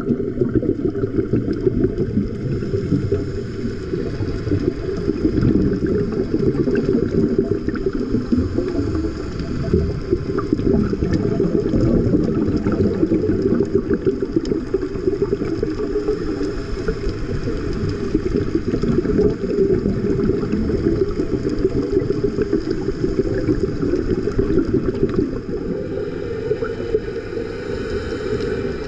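Muffled, churning water noise with a faint steady whine above it.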